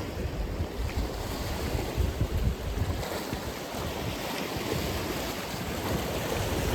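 Atlantic Ocean surf washing ashore in a continuous wash of noise, with deep gusty rumbles that suggest wind on the microphone.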